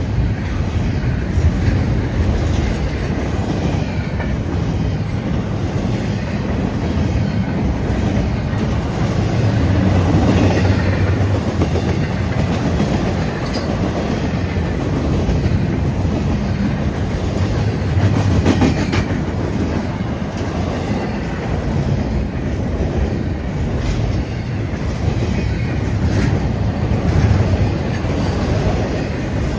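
Long freight train's cars rolling past at steady speed: a continuous rumble with wheels clacking over the rail joints.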